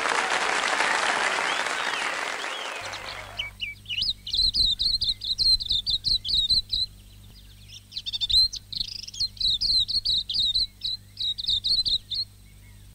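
Applause fading out over the first few seconds, then a native New Zealand songbird singing a rapid run of high, chirping notes. The song comes in two phrases with a short break about seven seconds in.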